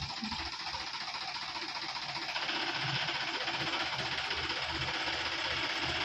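Tractor diesel engine running with a fast, even low knock, growing louder about two and a half seconds in.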